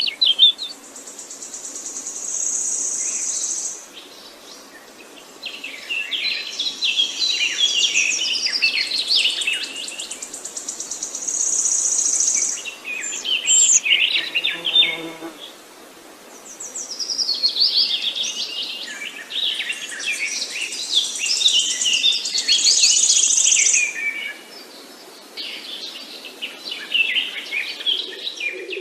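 Songbirds chirping and singing in overlapping bouts. High, buzzy trills a few seconds long come three times: near the start, about a third of the way in and past two-thirds.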